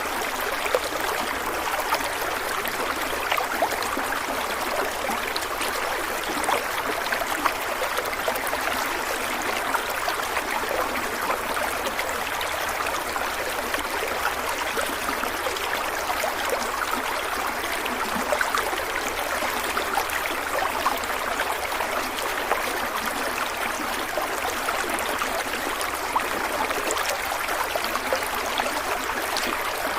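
A stream of water running and trickling steadily, a continuous splashing rush with small bubbling flecks.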